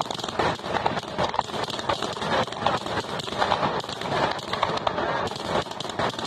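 Aerial fireworks crackling in a dense, irregular patter of small pops.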